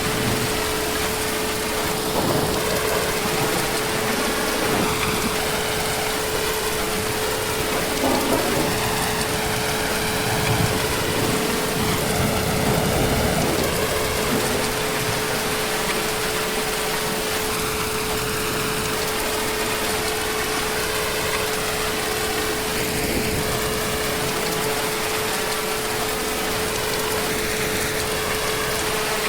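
Heavy, steady rain, with a low rumble of distant thunder about halfway through and a thin steady tone underneath.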